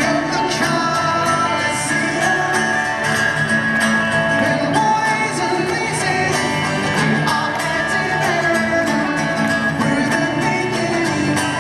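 Live band music at a concert: strummed guitar over a steady pounding beat, with singing.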